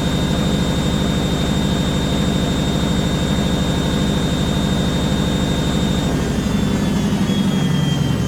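Candy Aquamatic 100F washing machine in its final 800 rpm spin: drum and motor running with a steady low throb and a high whine. About six seconds in the whine begins to fall in pitch as the spin starts to slow down.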